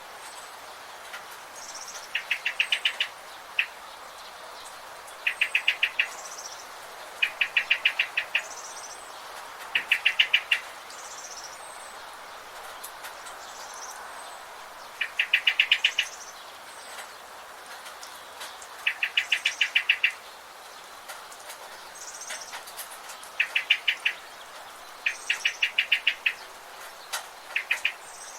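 Birds chirping: short rapid trills of about eight notes, repeated every two seconds or so, with fainter short high chirps between them over a steady hiss of forest background.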